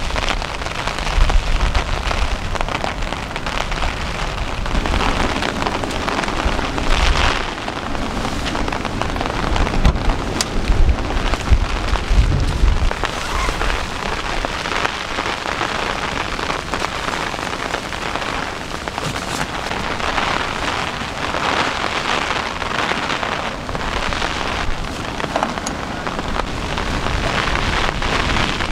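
Heavy rain pouring steadily, with gusts of wind buffeting the microphone as low rumbles, strongest in the first half.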